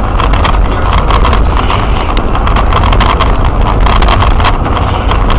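Loud road and engine rumble inside a moving car, with rapid irregular clicks and knocks running through it.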